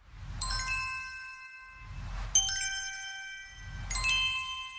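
An intro sound effect: three bell-like dings about a second and a half apart, each set off by a swelling whoosh with a low rumble. The ringing tones hang on and fade after each strike.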